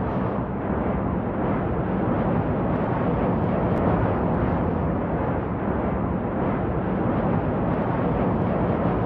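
Steady drone of a jet airliner in flight: an even low rumble and rush with no change in level or pitch.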